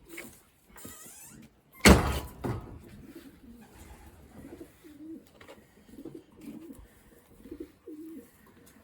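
Racing pigeons cooing repeatedly, with one loud knock about two seconds in.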